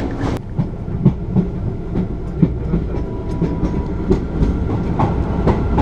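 Passenger train coach rolling along the track: a steady low rumble with irregular clacks and knocks from the wheels and running gear.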